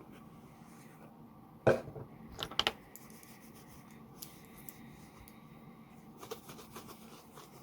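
Handling noise: a sharp knock about two seconds in, then a few quick clicks, and faint light tapping near the end, as objects are picked up and set down.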